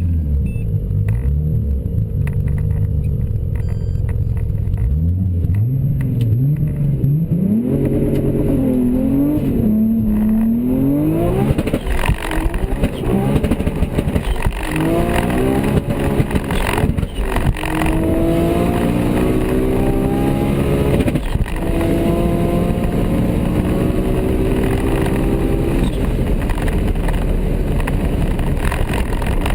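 Toyota Supra Mk4's turbocharged engine, revved up and down a few times and then accelerating hard, its pitch climbing again and again as it pulls through the gears.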